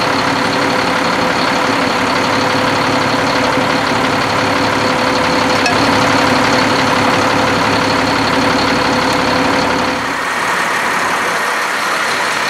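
Heavy truck engines idling steadily. About ten seconds in, the low rumble drops away.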